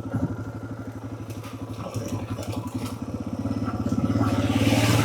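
Suzuki DR650's single-cylinder four-stroke engine running at low speed with an even beat, picking up and getting louder about three and a half seconds in. A hiss rises near the end.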